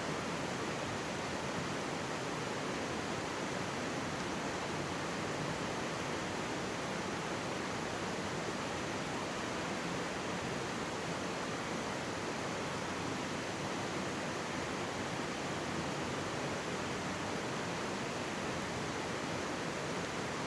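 Mountain stream running steadily close by, a constant even rush of water.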